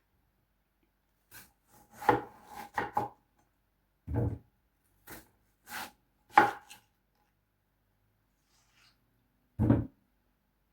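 Knife cutting up a watermelon: about ten separate chopping strokes, bunched close together over the first half, then a pause before one last cut near the end.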